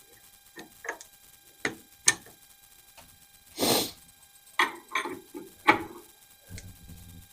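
Irregular sharp metal clicks and knocks of tools and AR-15 parts being handled on a workbench, about ten in all. There is a short rushing scrape just before the middle and a brief low hum near the end.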